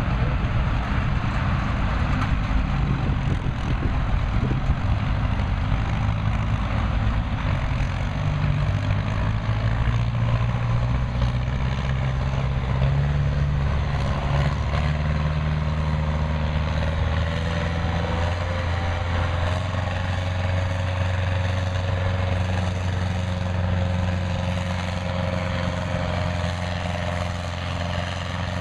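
Farm stock pulling tractor's engine running hard and steady, its pitch stepping up twice in the first half and then holding.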